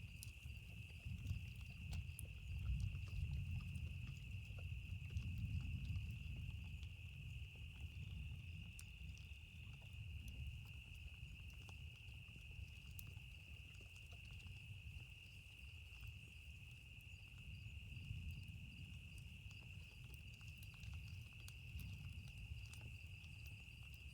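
Campfire crackling with scattered sharp pops over a low, uneven rumble, with a steady high-pitched trill throughout.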